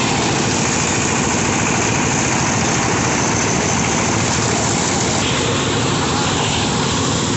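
Rice harvester's engine running steadily and loudly, with a constant mechanical drone and no change in speed.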